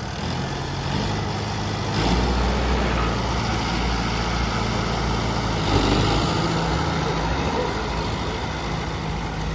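Modified turbocharged tractor engine running steadily. It gets louder and heavier about two seconds in, then eases back after about six seconds.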